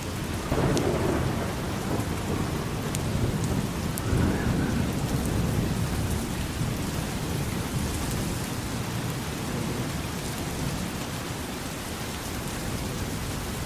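Steady rain falling, with low rumbles of thunder that swell about half a second in and again around four seconds, then fade into the rain.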